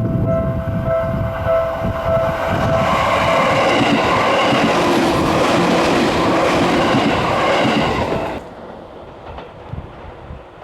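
Level-crossing warning bell pulsing for the first three seconds or so, then a Seibu Tamagawa Line electric train passing over the crossing. The train's noise cuts off suddenly about eight seconds in.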